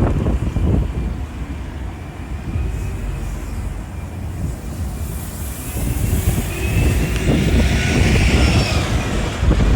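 Strong wind buffeting the microphone as a bus passes, its whine rising and then easing off in the second half.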